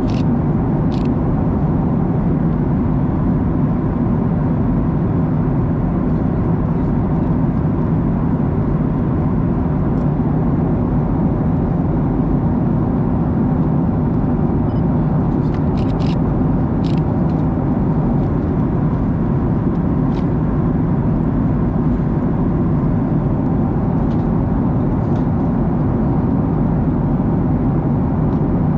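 Steady cabin noise of a Boeing 737-900ER at cruise: an even rumble and rush of its CFM56-7B engines and airflow. A few faint clicks sound over it.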